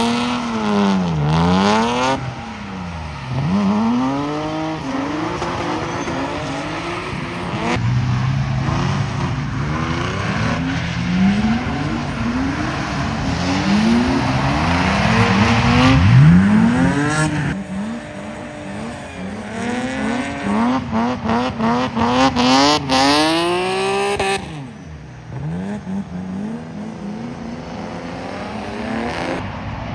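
BMW E36 drift cars' engines revving up and falling back again and again as they slide, with tyre squeal. The sound changes abruptly several times between passes.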